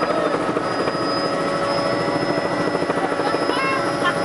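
Helicopter in flight: steady rotor chop and turbine noise with a few constant whining tones.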